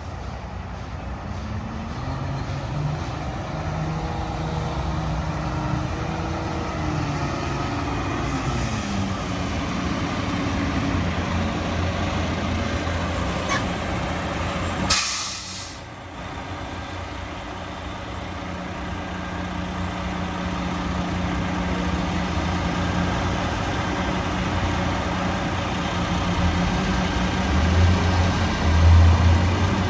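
Front-loader garbage truck's engine running steadily, its pitch rising and falling a few seconds in, with a sharp burst of air-brake hiss about halfway through and heavier low engine sound near the end.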